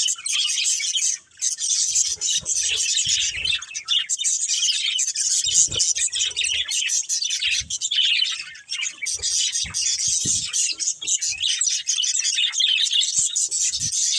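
Budgerigars chirping in a dense, continuous stream of high chirps, with a brief pause about a second in. A few faint low thumps sound underneath.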